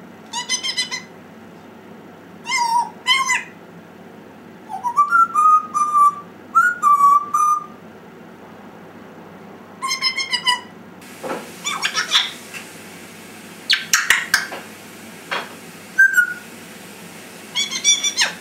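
African grey parrot making a string of short pitched calls, with two drawn-out whistles about five to seven seconds in and rougher, noisier calls past the middle.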